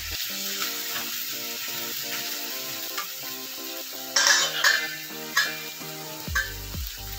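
Corned beef and diced potatoes sizzling in oil in a metal wok, with a wooden spatula scraping and stirring; the loudest scrapes come in a cluster about four seconds in, then once near five and a half seconds and once near six and a half. Soft background music plays underneath.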